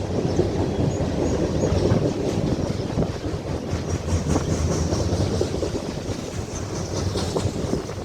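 Freight train cars rolling past on the Norfolk Southern line, a steady rumble with the wheels clicking over rail joints and a faint high wheel squeal now and then.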